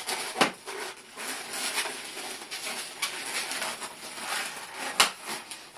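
Latex modelling balloons rubbing and squeaking against each other and the hands as they are twisted and wrapped together. Two sharp clicks cut through, one about half a second in and a louder one near the end.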